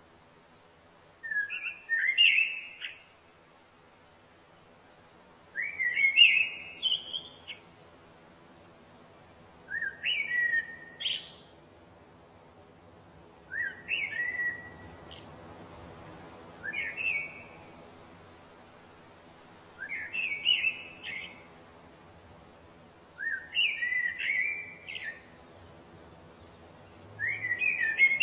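A songbird singing short, repeated phrases of chirps and whistled notes, eight phrases each about a second and a half long, with pauses of a few seconds between them.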